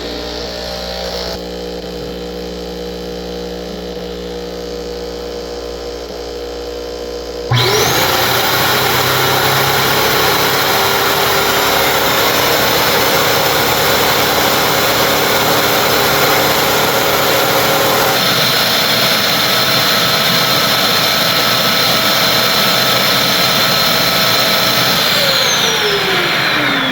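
Bissell CrossWave HydroSteam wet-dry vacuum running its self-cleaning and drying cycle. It starts with a lower steady hum. About seven seconds in, the motor spins up with a rising whine to a loud, steady run, and near the end it winds down with a falling whine.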